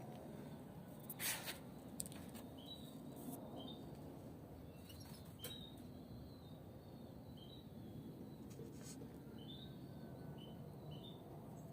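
Caged European goldfinches giving short, soft chirping calls again and again, with a few clicks and rustles, the loudest about a second in.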